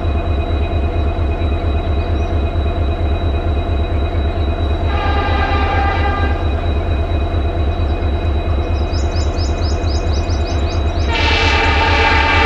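Indian Railways diesel locomotive running with a steady pulsing engine rumble. It sounds its horn twice: a short blast about five seconds in, and a longer one starting near the end.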